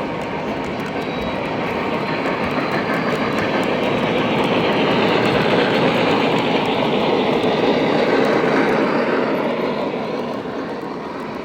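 Model train running along the track, a steady rumble of wheels and motor that swells to its loudest past the middle and then fades.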